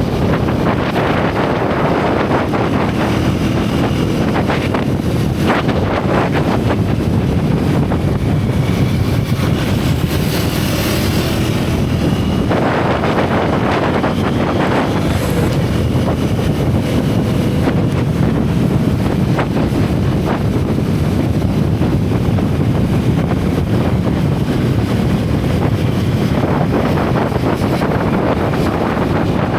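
A single-cylinder motorcycle engine running under way on the road, heard through heavy wind buffeting on the helmet or bike-mounted microphone.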